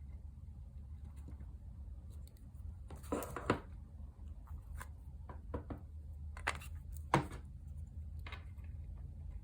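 Paper being handled on a craft desk: a scatter of short rustles and light taps, the loudest about three seconds in and again about seven seconds in, over a steady low hum.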